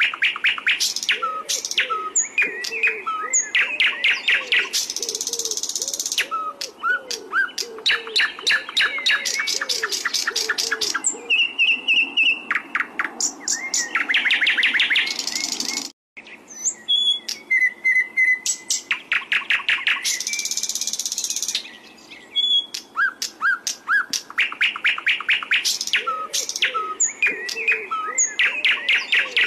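Sikatan londo song: quick high chirps and fast rattling trills in rapid succession. The song cuts out briefly about halfway, then the same sequence starts over, as in a looped training recording.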